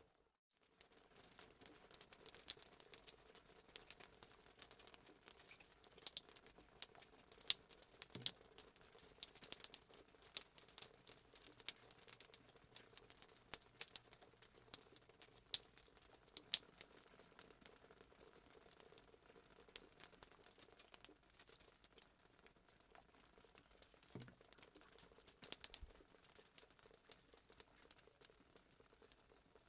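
Fireplace crackling sound effect: a wood fire's irregular pops and crackles, close together and faint, over a low steady hum.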